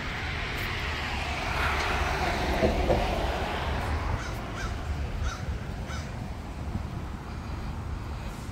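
Outdoor bird calls: a few short calls over a steady low rumble of open-air ambience.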